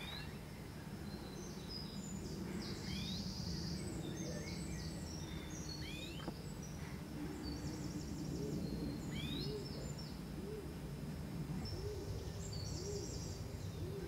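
Greenfinch nestlings begging: high, thin chirps and bursts of rapid twittering, over a steady low rumble. In the second half, a low note repeats about once a second in the background.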